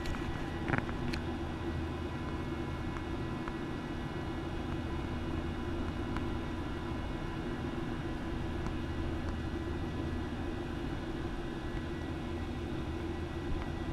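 Steady drone of a Boeing 737-900 airliner's CFM56 turbofan engines and airflow, heaviest in the low range, with a faint click about a second in.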